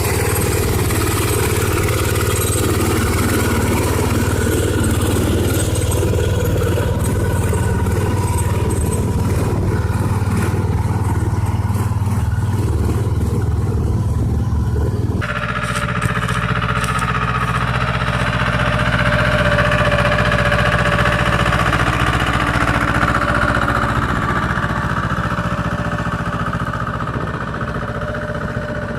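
Small tractor engines running steadily. About halfway through there is an abrupt switch to a different engine with a higher note.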